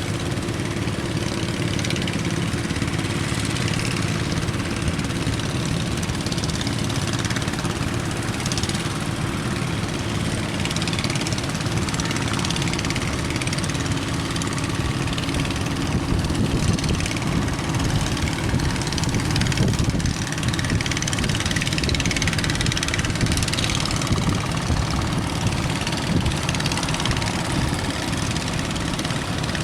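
Boat engine running steadily, under a constant rush of strong wind and waves at sea.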